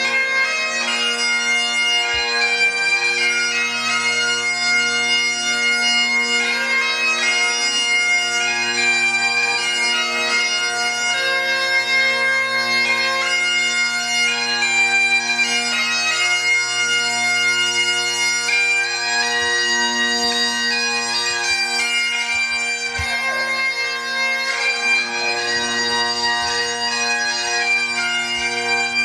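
Bagpipes playing a tune: a melody on the chanter over steady, unbroken drones.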